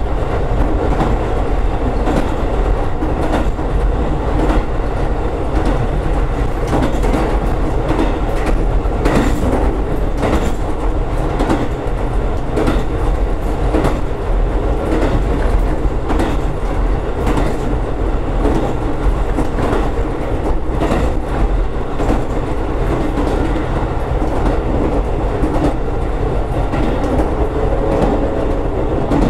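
Diesel railcar on the JR Senmo Line running steadily along the track, heard from inside the car at its rear end: a constant rumble of engine and wheels with the clickety-clack of wheels passing over rail joints.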